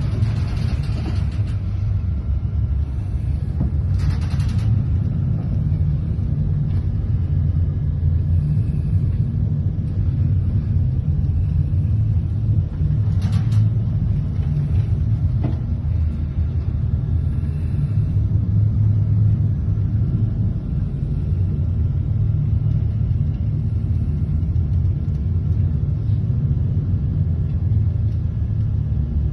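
Steady low rumble of a fishing trawler's engine and hull, heard inside the wheelhouse as the ship pushes into heavy head seas. A few short bursts of hissing noise come over it near the start, about four seconds in and about thirteen seconds in.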